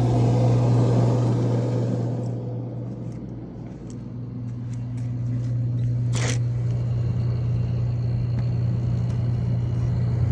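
A roughly 35-year-old refrigerator's compressor and fan running with a steady low hum, just restarted by advancing its defrost timer one turn, which shows that the timer works and had only got stuck. A brief scrape comes about six seconds in.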